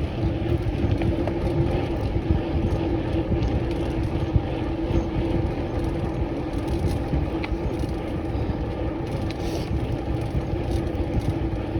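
Wind rush on the microphone and tyre noise on wet tarmac from a bike being ridden along, with a steady hum underneath.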